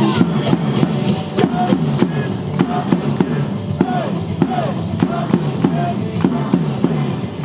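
Baseball player cheer song playing over the stadium loudspeakers: loud music with a steady drum beat.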